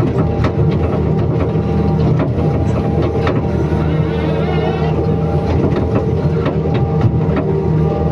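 Excavator diesel engine running steadily, with short clicks and knocks through it and a wavering higher whine for about a second near the middle.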